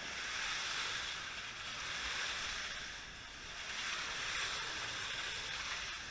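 Slot cars running laps: a steady whirring hiss from their small electric motors and tyres on the track, swelling and fading every two to three seconds as the cars come past.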